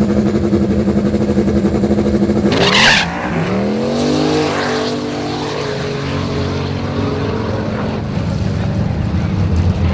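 A drag-racing car's engine holds steady revs, then a loud sharp burst comes just before three seconds in. After it the engine note climbs in pitch and settles as the car pulls away.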